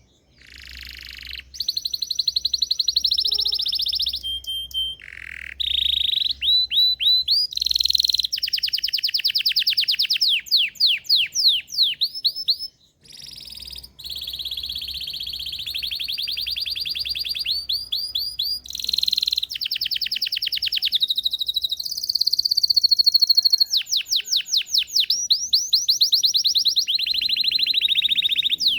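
Belgian canary singing a long, continuous song of rapid trills and fast repeated rising notes, changing phrase every second or two, with a brief pause about halfway through.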